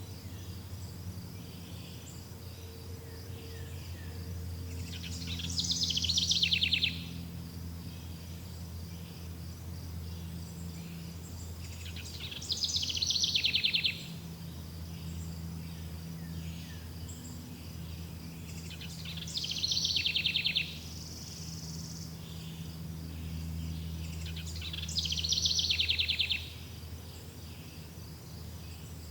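Forest ambience: a bird sings the same loud, falling, rapidly trilled phrase four times, about every seven seconds. Under it, insects keep up a steady, pulsing high drone, and a low hum sits beneath everything.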